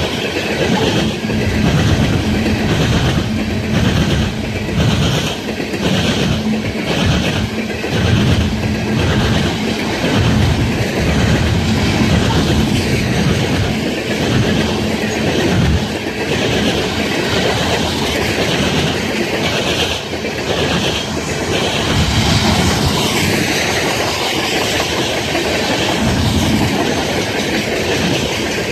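Freight train rolling past close by, its wheels clattering over the track in a steady, even rhythm.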